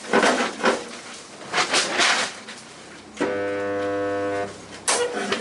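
Knocks and clatters of metal being handled, then a steady buzz for just over a second from a MIG welder putting a spot weld into the Mini's floor panel.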